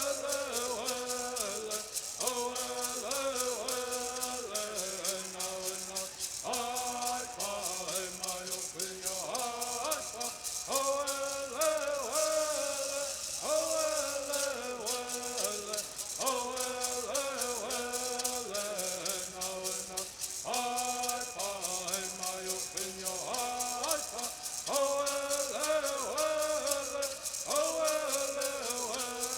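Bird songs: singers chanting in unison over continuously shaken gourd rattles, the voices in short repeated phrases that rise and fall over a fast, steady rattle.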